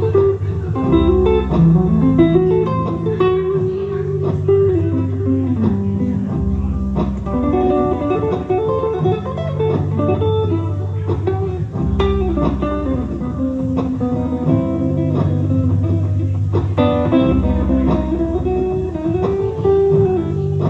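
Guitar playing an instrumental tune: a picked melody and chords over low bass notes that change about every five seconds.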